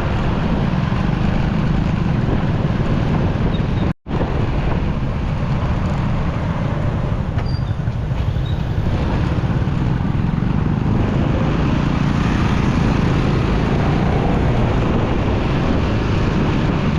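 Motorcycle ride in traffic: steady engine and road noise with wind rushing over the microphone, cut out briefly about four seconds in.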